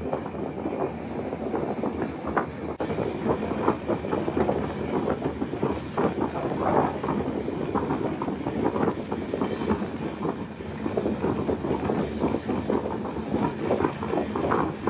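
Mauritanian iron ore train running, heard from inside an open ore wagon: a steady, dense clatter of steel wheels on the rails and rattling, knocking wagon steelwork, many knocks a second.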